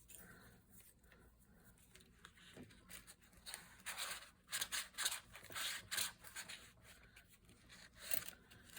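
Paper and card being handled, with short irregular rustles and scrapes starting about three seconds in.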